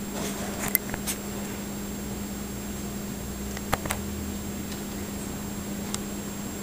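A steady low hum over background hiss, with a few faint clicks about a second in and again near four seconds.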